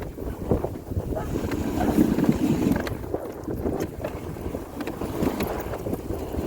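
Wind buffeting the microphone over an uneven low rumbling noise.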